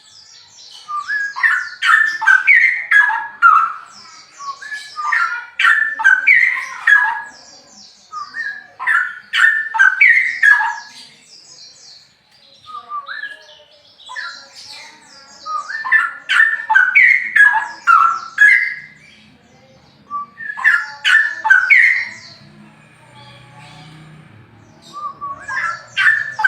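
Straw-headed bulbul (cucak rowo) singing loud song phrases of one to three seconds each, about six of them, separated by short pauses.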